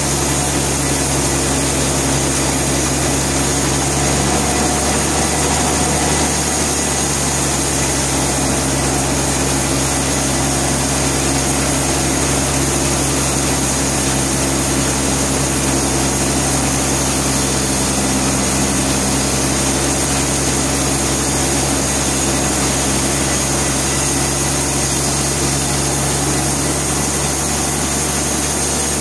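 Sawmill machinery running steadily, a loud, even mechanical drone with a constant low hum that does not change.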